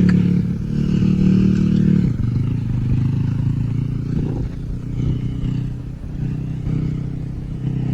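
Yamaha YZ250 two-stroke dirt bike engine running, dropping in pitch and easing off about two seconds in, then running on steadily.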